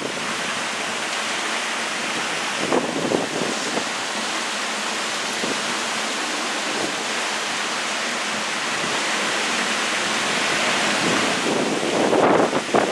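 Tropical-storm wind and rain: a steady rushing hiss, with gusts buffeting the microphone about three seconds in and again near the end.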